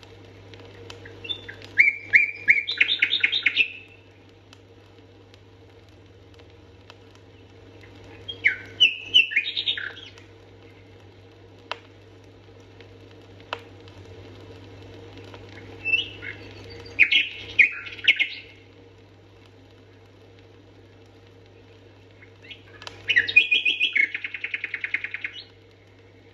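A songbird singing four loud phrases of rapid repeated notes and trills, each about two to three seconds long, with pauses of several seconds between them, over a faint steady low hum.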